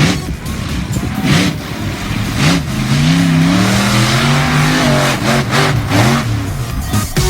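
Monster truck engine revving hard, its pitch rising and falling several times, with a long swell in the middle.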